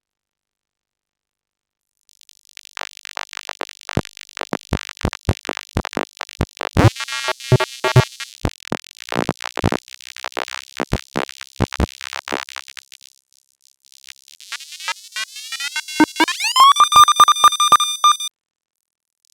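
Synthesized robotic sound effects: a rapid, irregular run of electronic clicks and chirps with a brief pitched warble in the middle. After a short pause, a rising sweep settles into a held buzzy electronic tone that cuts off suddenly near the end.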